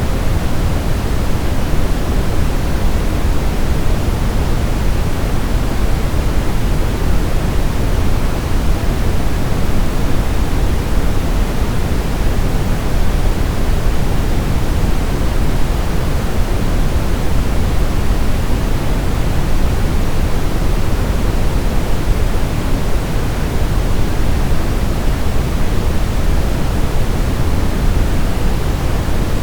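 Steady brown noise: an even, unchanging rumble-like hiss, strongest in the bass and fading toward the treble.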